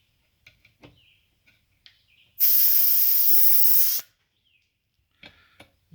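Compressed air hissing out of a dirt bike exhaust-pipe dent-repair pressure kit's release valve. It is loud, starts a couple of seconds in, lasts about a second and a half and cuts off sharply. The air is being let out because the pressure in the expansion chamber had climbed to about 58 psi, above the kit's recommended 55 psi maximum.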